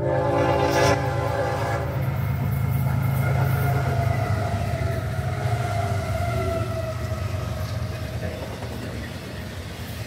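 Florida East Coast Railway freight train passing at speed. The diesel locomotive's horn sounds a chord for about the first two seconds, then cuts off. After that come the heavy low rumble of the locomotive and the rolling double-stack intermodal cars, with a tone that slowly drops in pitch as the train goes by.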